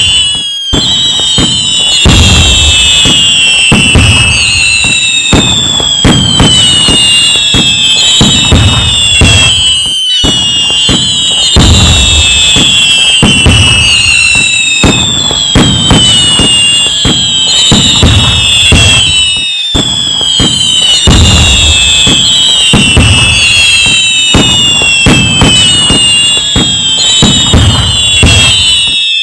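A dense, loud fireworks barrage: many whistling shells with falling whistles, over a steady run of bangs, crackles and low booms. A brief dropout comes about every ten seconds, and the same stretch of sound repeats after it.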